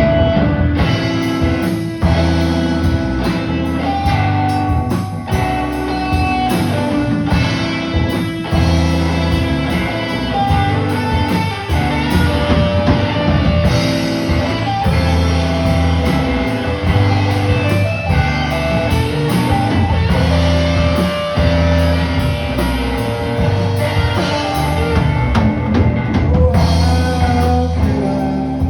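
Live band music: guitar playing over bass and a drum kit in a rock-blues style.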